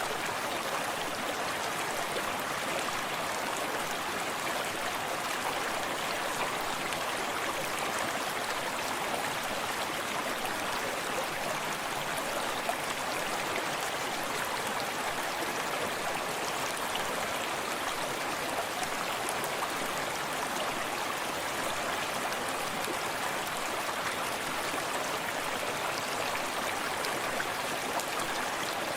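A small forest stream running steadily, water splashing and gurgling over rocks in an even rush with no pauses.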